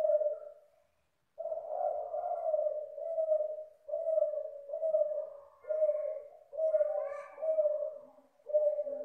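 Derkuku sinom F1 dove (tekukur, spotted dove) cooing. One short low coo, then after a pause of about a second a long run of about seven joined coos at an even pitch, with another phrase starting near the end.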